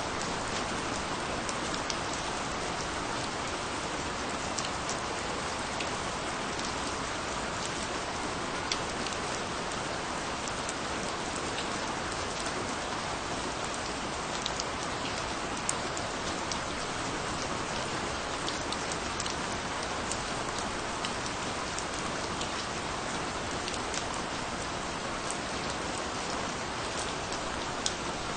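Steady rain falling on a surface, a constant hiss with many small drop ticks scattered throughout; no thunder.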